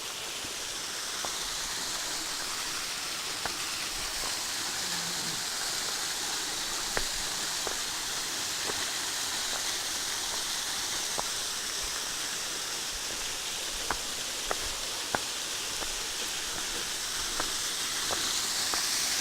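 Waterfall splashing in a steady hiss, carrying only a little water in the dry season, with scattered faint ticks.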